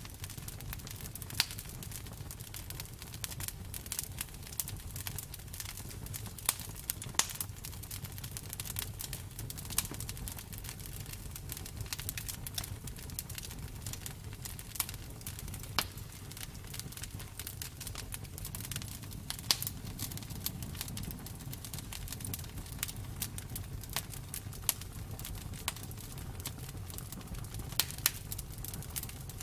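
Campfire burning: irregular sharp crackles and pops over a steady low rumble of the flames.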